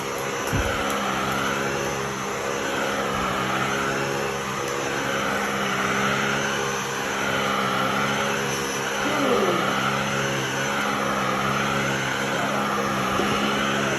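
Miele Triflex cordless stick vacuum running steadily, a constant motor hum under a rush of air whose pitch rises and falls in an even rhythm about every two and a half seconds.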